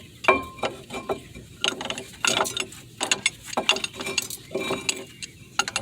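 Irregular metallic clicks and clatter of brake parts and a hand tool being handled and fitted against a disc-brake caliper.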